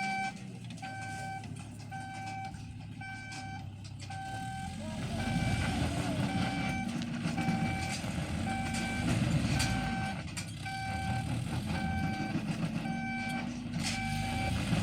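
A vehicle's reversing alarm beeping steadily about once a second, each beep a short single tone, over the low rumble of its engine.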